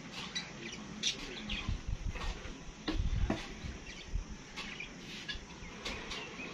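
Small birds chirping in short, sharp calls again and again, with a few low bumps about three seconds in from hands working dough in a clay bowl.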